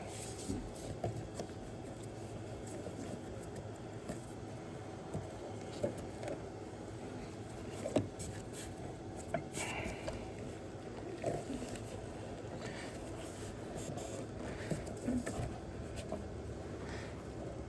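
Scattered light clicks and knocks of hands and tools working on parts under a truck's hood, the sharpest about eight seconds in, over a steady low hum.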